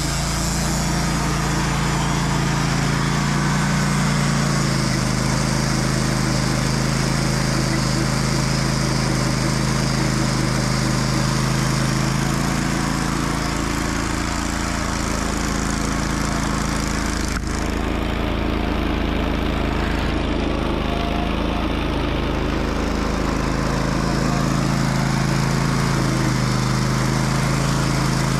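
Sawmill engine running under heavy load as the band blade cuts through a large oak log, the mill straining in the cut. The engine's pitch sags through the middle of the cut and comes back up near the end, with a single sharp click about seventeen seconds in.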